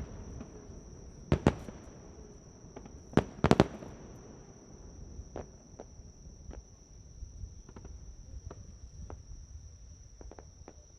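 Aerial fireworks bursting: two loud bangs about a second and a half in and another cluster of bangs near three and a half seconds, followed by fainter scattered pops and crackles. A steady high-pitched insect trill runs underneath.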